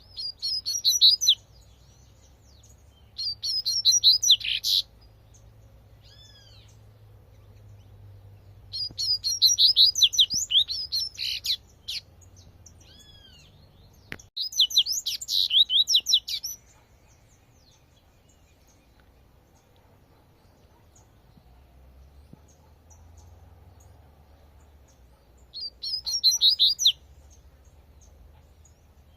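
Double-collared seedeater (coleirinho) singing its 'tui tui' song: five short phrases of rapid, high twittering notes separated by pauses of a few seconds, with a few soft single arched notes in between.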